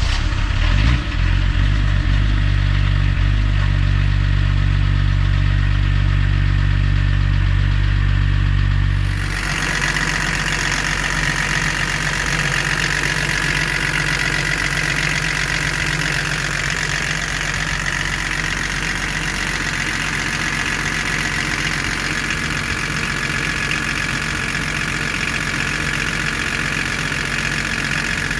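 BMW M51 2.5-litre turbodiesel straight-six idling just after a cold start. About nine seconds in the sound changes: the deep low rumble drops and a hiss with a steady higher whine comes up and holds.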